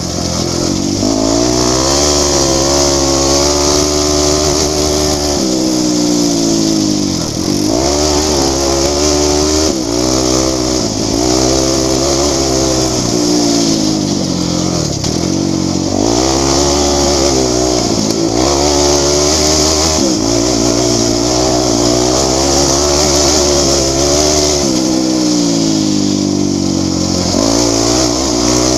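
Enduro dirt bike engine heard from on the bike, its pitch climbing under throttle and dropping back again and again as it is ridden hard along a dirt track.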